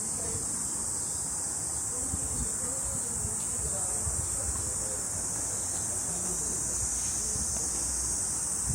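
A chorus of summer insects: a steady, high-pitched, unbroken drone that holds level throughout.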